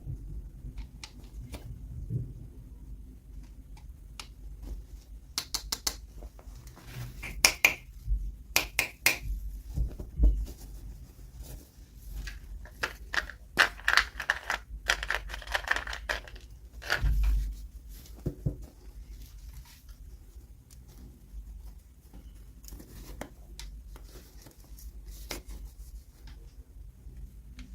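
Toy packaging being opened by hand: sharp snips and clicks, crinkling and tearing plastic, and small taps, with a low thump about two-thirds of the way through.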